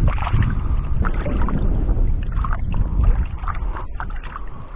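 Hands splashing and scooping lake water in short irregular sloshes, over wind rumbling on the microphone.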